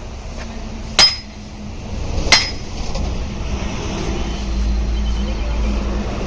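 Two ringing metal hammer blows about a second and a half apart, struck during repair of a truck's driveshaft universal-joint cross, over a steady low rumble.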